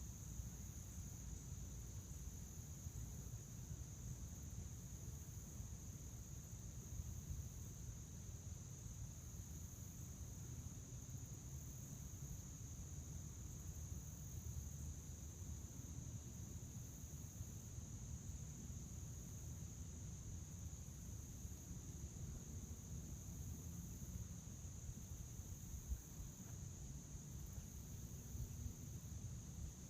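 Crickets chirring in a steady, unbroken high-pitched trill, over a low background rumble.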